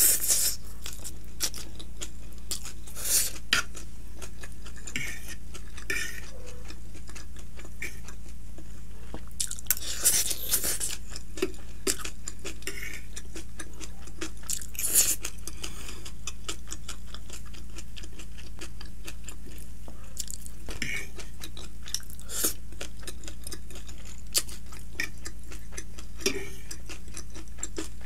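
Close-up chewing of stir-fried chowmein noodles and vegetables, with a slurp of noodles at the start and irregular clicks of a fork on the plate. A steady low hum runs underneath.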